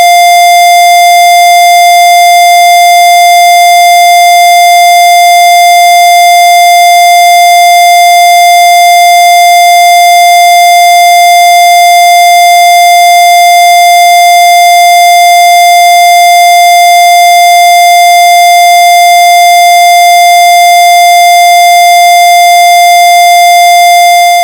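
Loud, steady electronic tone held at one unchanging pitch, buzzy with many overtones.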